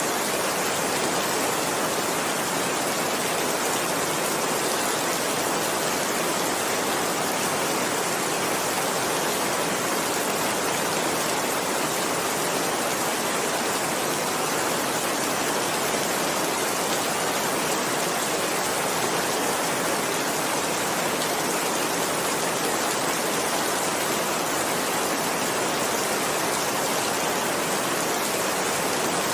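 Heavy, steady rainfall, an even unbroken hiss of rain with no thunder or distinct drips standing out.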